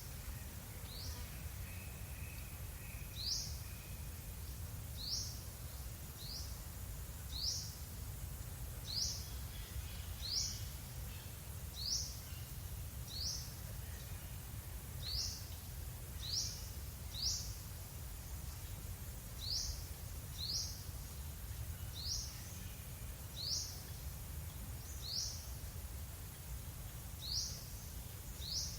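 A bird repeating a short, high, falling call about once a second, over a steady low rumble.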